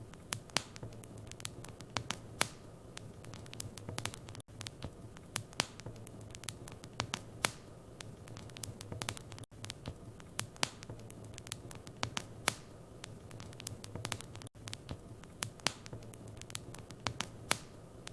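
Wood fire crackling in a fireplace: irregular sharp pops and snaps over a steady low rumble, with a brief dropout about every five seconds.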